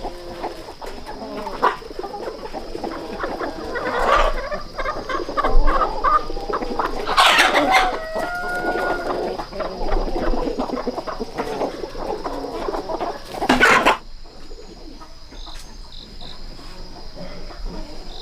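Chickens clucking, with a rooster crowing. A thin, steady high tone runs underneath, and the background drops abruptly about fourteen seconds in.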